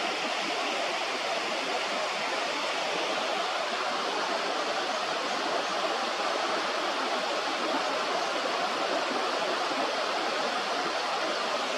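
Steady rush of flowing river water, an even unbroken noise with no bird calls standing out.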